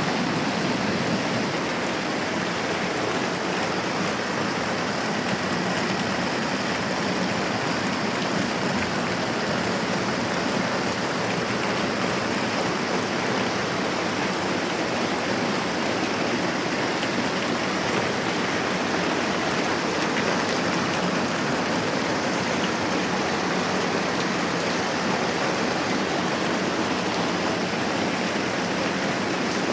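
Moderate rain falling steadily, an even hiss with no changes.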